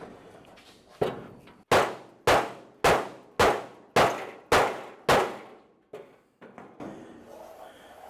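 Hammer striking the steel trunk lid of a 1928 Ford Model A, eight ringing clangs at an even pace, about one every half second, as the sheet metal is sprung outward to shape. It sounds like really hard hitting.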